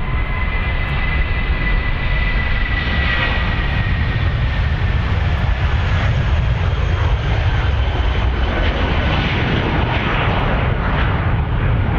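Airliner engines running loudly and steadily. A thin high whine sinks slightly in pitch over the first few seconds, then the sound turns into a rougher, uneven rumble.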